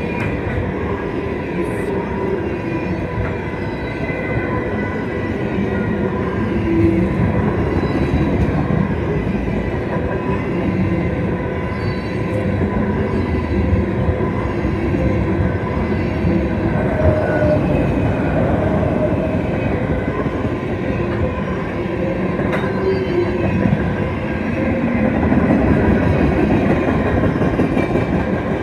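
Canadian Pacific freight train's loaded tank cars rolling steadily past close by: a continuous rumble and clatter of steel wheels on the rails, with a faint steady high ringing of the wheels.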